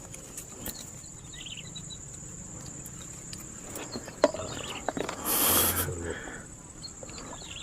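Insects giving a steady high-pitched drone, with a sharp click about four seconds in and a short loud rush of noise just after.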